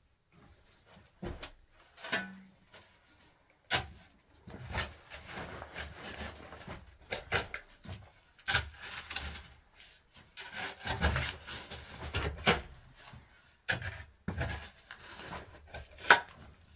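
Hands-on work noise: irregular scraping and rubbing, broken by sharp knocks and clicks, with the loudest knock near the end.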